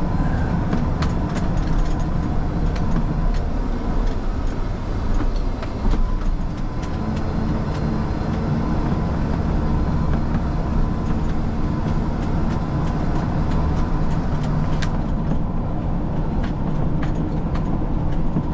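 Rollback tow truck running under way, a steady low engine drone with many small rattles and clicks and a faint steady whine.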